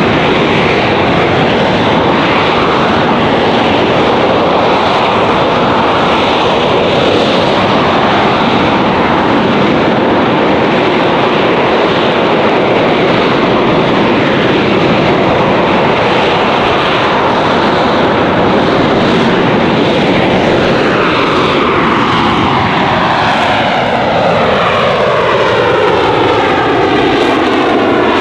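AV-8B Harrier II's Pegasus turbofan running with a loud, steady jet roar. In the last several seconds the roar takes on rippling tones that slide downward in pitch as the jet moves relative to the ground.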